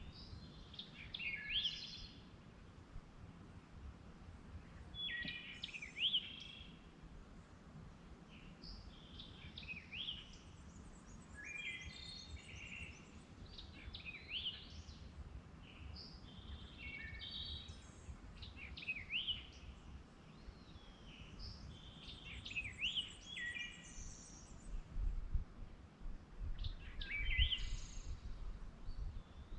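Songbird singing outdoors, short phrases of quick sweeping, chirping notes repeated every two to three seconds, over a low steady background rumble.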